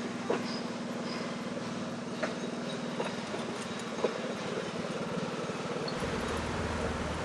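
Puffing Billy narrow-gauge heritage train standing at a station: a steady low hum with a few short, sharp clanks, and a deeper rumble joining near the end.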